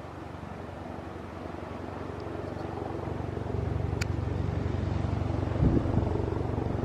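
Helicopter rotor beating steadily and growing louder, with a couple of gusty thumps near the end.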